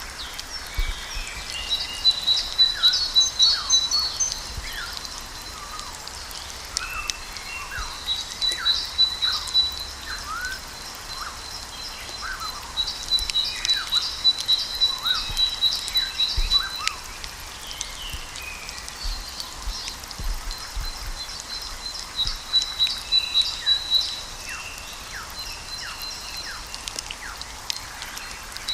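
Small birds chirping and twittering: many short quick chirps, with a rapid high trill breaking out every few seconds.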